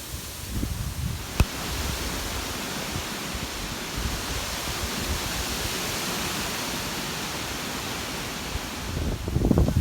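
Steady rushing hiss of water, with a single sharp click about a second and a half in. Wind buffets the microphone with low rumbling gusts near the end.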